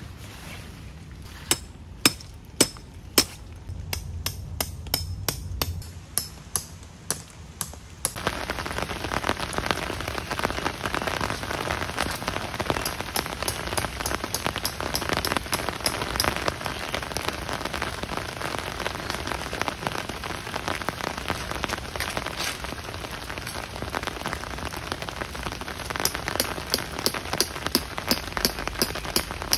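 Rain: for the first several seconds, single large drops strike one at a time. About eight seconds in it suddenly turns into a heavy downpour of dense, close-packed drops.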